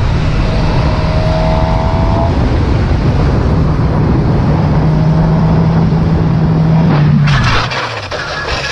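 Motorcycle running steadily at speed over loud road and wind noise. About seven seconds in, a sudden clattering scrape cuts in and the engine note falls away: the sound of the bike crashing.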